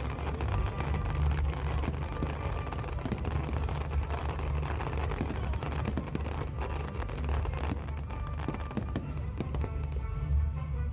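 Fireworks bursting and crackling in quick, irregular succession over loud music with a heavy, steady bass line.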